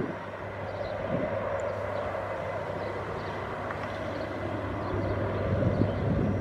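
Airbus A319 jet engines at takeoff power, a steady rumble with a broad whine that grows a little louder near the end. Gusts of wind on the microphone come and go.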